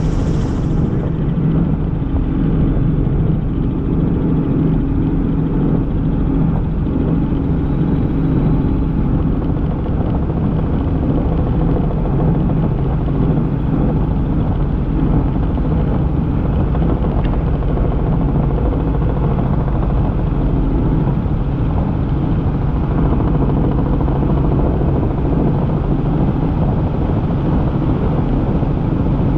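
Helicopter in flight heard from inside the cabin: rotor and turbine engine running with a steady, loud, low drone. A higher hiss drops away about a second in.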